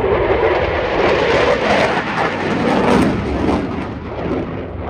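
Eurofighter Typhoon's twin turbofan jet engines passing at display power: a loud, ragged jet rumble with a crackling edge, building to a peak about three seconds in and easing off near the end.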